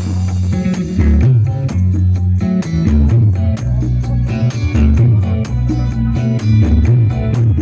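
Music with guitar over very heavy, loud bass, played through a large sound system.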